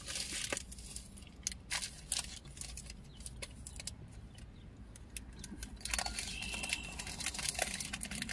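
Close-up chewing of Hershey's popping candy chocolate, with irregular sharp clicks and crackles scattered throughout and a denser patch of crackling about six seconds in, over a low steady hum.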